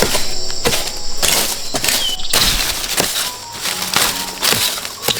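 Repeated chopping strikes into bamboo, roughly one or two a second at an uneven pace, with a steady high insect drone behind them.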